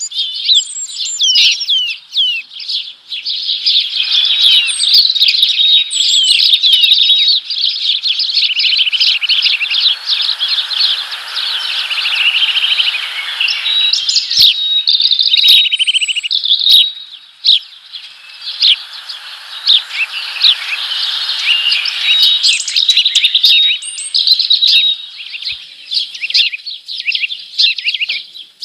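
Several small birds chirping continuously, with many short overlapping calls and a few quick rattling trills. A softer rushing noise swells and fades a few times underneath.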